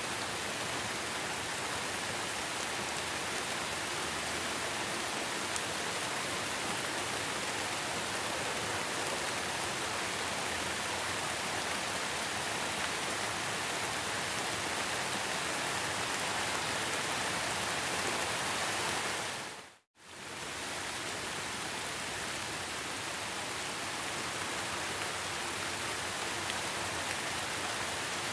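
Steady heavy rain, an even hiss of downpour. About two-thirds of the way through it dips to silence for a split second and then comes straight back.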